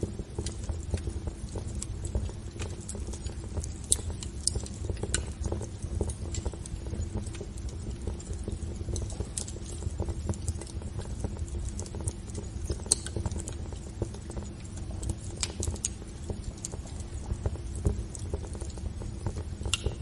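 Wood fire in a fireplace crackling, with irregular sharp pops and snaps over a steady low rumble of the flames, and a faint steady hum underneath.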